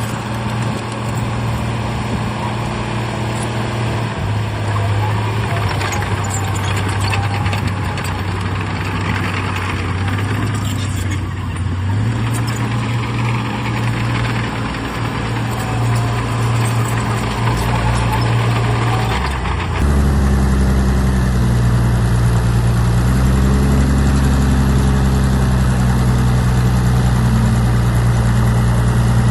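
Heavy diesel earthmoving machinery running steadily, the engine note shifting in pitch a few times, with metallic rattling and scraping in the first half. About two-thirds of the way through it cuts to a louder, deeper engine running steadily.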